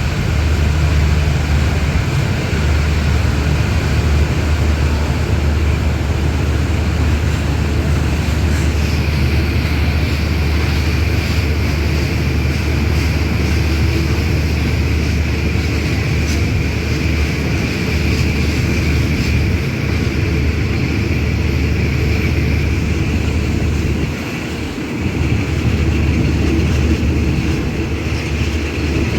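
Thai passenger train running, heard from aboard: a steady low rumble with a brief dip about 24 seconds in.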